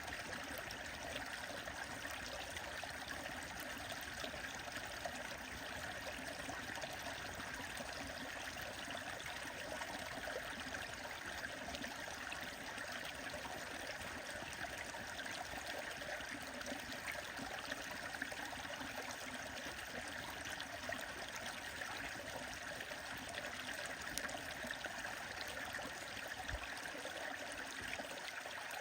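A stream running steadily, with scattered faint crackles from a bonfire beside it.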